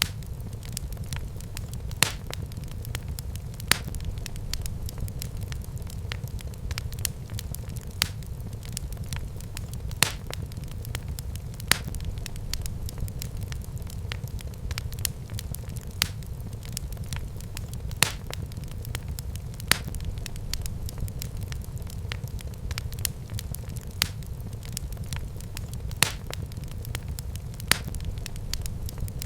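Wood fire burning in a fireplace, crackling constantly over a low rumble, with a louder sharp pop about every two seconds.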